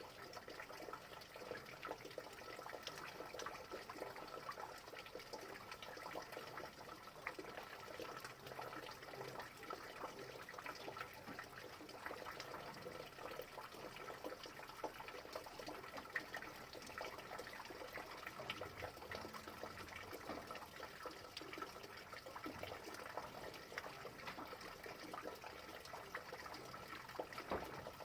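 Steady rain falling, an even hiss dotted with many small individual drop ticks.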